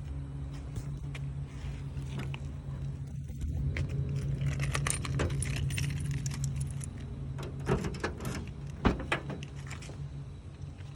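Keys jangling and clicking, thickest through the middle, over a steady low hum.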